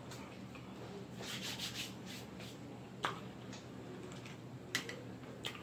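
A person chewing crunchy fried food: a run of faint, scratchy crunches, then three sharp clicks in the second half.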